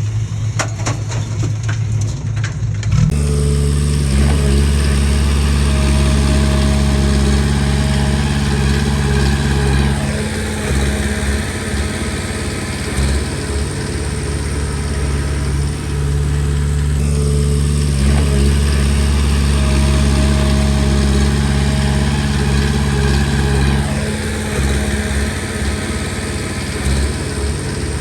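Komatsu D20P bulldozer's diesel engine running loudly under changing load, its pitch and strength shifting in cycles about every seven seconds as it works. It comes in abruptly about three seconds in, after a quieter hum with scattered clicks.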